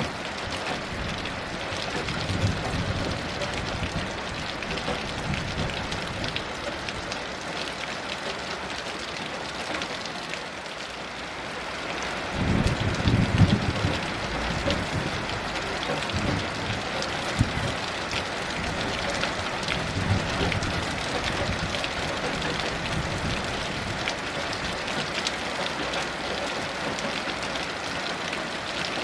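Heavy rain falling steadily, a dense patter of drops. Low thunder rumbles swell under it a few times, the loudest a little before midway.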